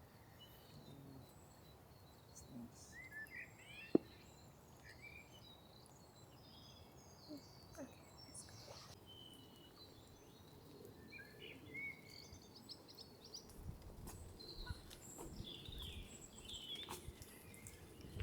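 Small birds chirping and singing faintly in scattered short calls. A single sharp click about four seconds in is the loudest sound, and there is some low rumbling in the second half.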